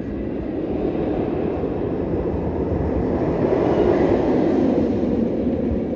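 Loud roar of a B&M steel roller coaster train running along its track, swelling to a peak about four seconds in and dropping away abruptly near the end.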